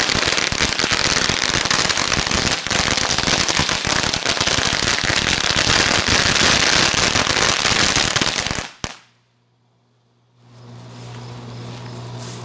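A string of 1,000 firecrackers going off in a dense, rapid crackle of bangs for about nine seconds, then stopping abruptly; the whole string burns through very quickly.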